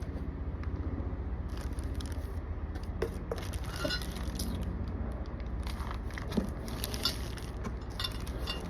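Kit parts being handled out of their packaging: scattered rustling, scraping and light clinks, over a steady low hum.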